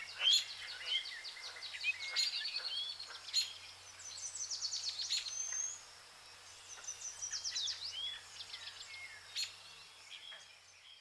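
Birds chirping and trilling, several calls overlapping: short sharp chirps and quick runs of repeated notes, over a faint low hum. The sound fades out near the end.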